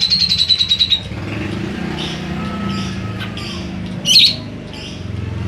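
Cucak jenggot (grey-cheeked bulbul) singing, its song laced with mimicked sparrow and lovebird calls. A fast falling trill ends about a second in, followed by short chirps and one loud sharp call about four seconds in, over a steady low hum.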